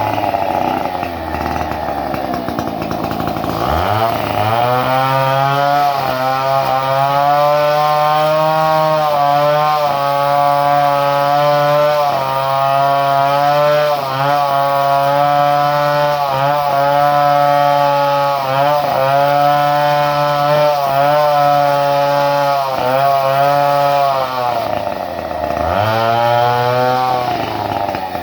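Two-stroke chainsaw engine with a modified ignition, revving up sharply about four seconds in and held at high speed with brief dips every second or two. It drops back about 24 seconds in, revs up once more, and slows again near the end.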